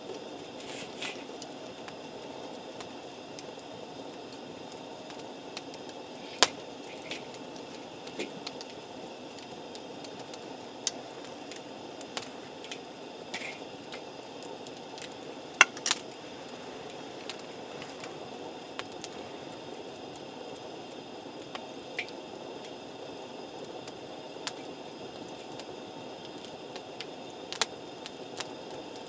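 Wood campfire burning with a steady hiss, and sharp crackles and pops every few seconds, the loudest about six and sixteen seconds in.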